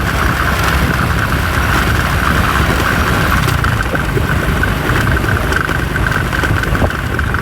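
Motorcycle engine running steadily while riding, with a low rumble and a steady whine.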